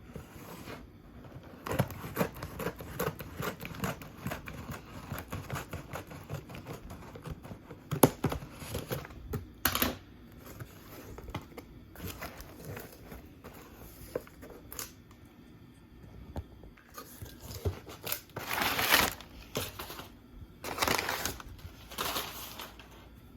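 Crinkling, rustling handling sounds with scattered clicks and knocks, and two louder rustles of a second or two each near the end.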